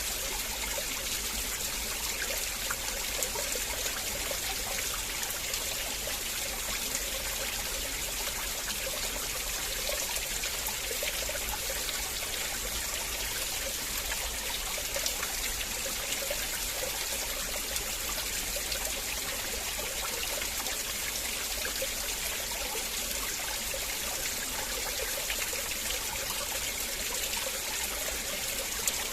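River water flowing and trickling, a steady splashing babble with no pauses.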